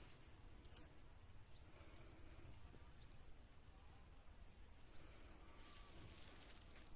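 Faint, short high chirps of a small bird, four single notes each dropping slightly in pitch, spaced a second or two apart, over a low steady hum of outdoor background.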